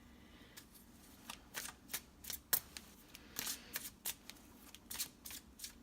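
Tarot cards being handled: a quick, irregular run of light flicks and snaps of card stock.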